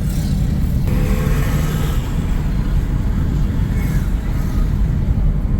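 Steady low rumble of a car driving, with engine and road noise heard from inside the cabin. A faint higher tone comes in briefly about a second in.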